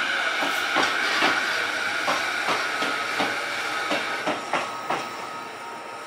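JR Keiyo Line electric commuter train running along the track: its wheels clack over the rail joints two to three times a second over a steady high hiss, getting quieter as it goes.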